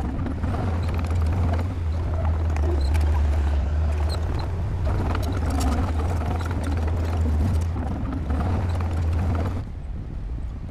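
Bulldozer diesel engine running steadily under load, with metallic clanking and scraping from the tracks and blade. The heavy engine note drops away about a second before the end.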